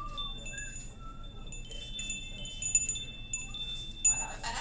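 Hanging metal wind chimes ringing, a lot of noise: several high tones struck at different moments and ringing on over one another, with a louder clatter about four seconds in.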